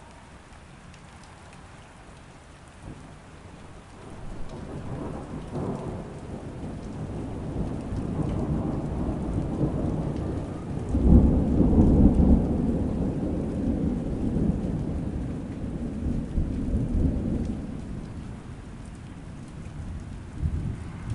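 Steady rain with a long rolling thunder rumble that swells about four seconds in, is loudest near the middle, and dies away, with a smaller rumble near the end.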